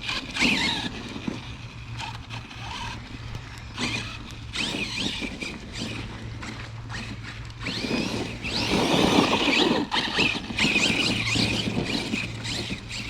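Brushless electric motor of an Arrma Kraton 6S RC truck whining up and down in surges as the throttle is worked, its tyres spinning through wet grass. The longest, loudest surge comes about eight seconds in.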